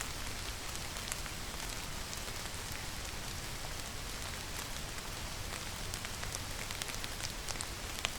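Steady rain falling: an even hiss with scattered sharper drop ticks, and no thunder.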